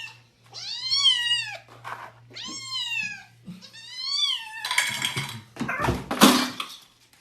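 A domestic cat meowing three times, each long meow rising then falling in pitch, about a second apart. Two short rough, hissy noises follow near the end.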